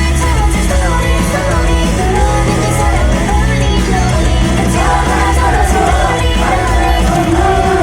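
Live idol pop song through a venue's PA: a female lead vocal over a backing track with a heavy bass beat. Shouts from the audience come through the music.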